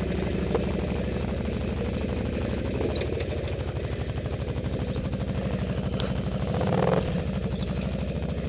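ATV engine idling with a regular pulsing beat, rising briefly in a small rev about seven seconds in before settling back to idle.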